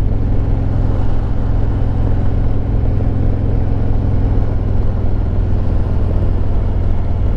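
Harley-Davidson Road Glide Limited's Milwaukee-Eight 114 V-twin running steadily while the motorcycle is ridden down the road, a low, even drone.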